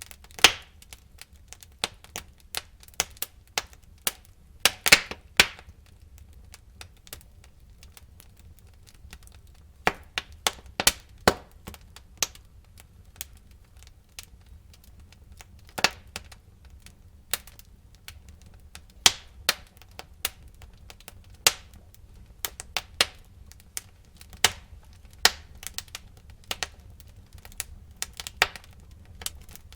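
Burning wood in a fireplace crackling: irregular sharp cracks and pops, some in quick clusters, over a low steady rumble of the fire.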